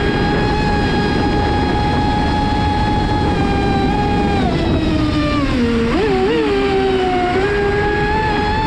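Traxxas Spartan RC racing boat's brushless electric motor whining at speed over rushing water. About halfway through the pitch falls and wavers, then climbs back a little before the end.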